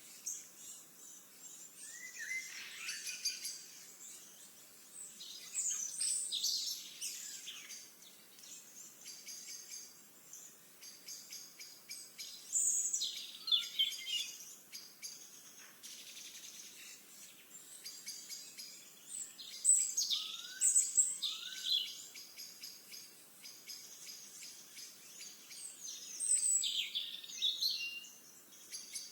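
Songbirds singing: a loud song phrase comes back about every six to seven seconds, with softer chirps between.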